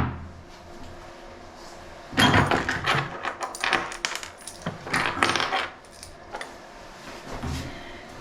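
Small metal objects clinking and rattling: a quick run of impacts lasting about four seconds, then a few fainter clinks near the end.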